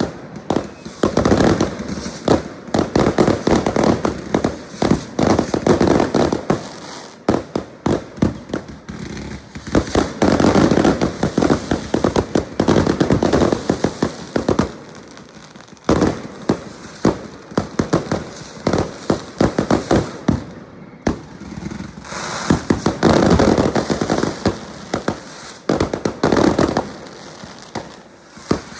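Fireworks going off: rapid strings of bangs and crackles in bursts lasting a few seconds, with short lulls between them.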